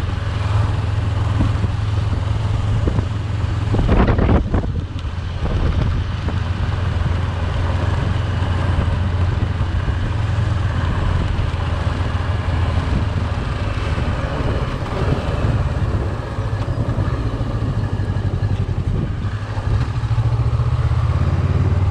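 A car driving on a road: a steady low engine drone with road and tyre noise, and one brief louder thump or whoosh about four seconds in.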